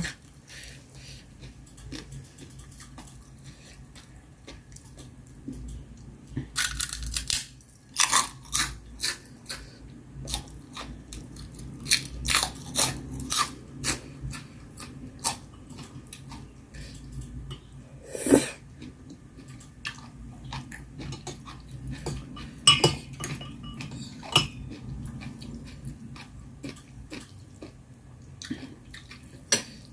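Close-miked eating: chewing and crunching of mala hotpot with vegetables, a stream of short crisp clicks and wet smacks with a few louder ones, and now and then a clink of utensils against the dish.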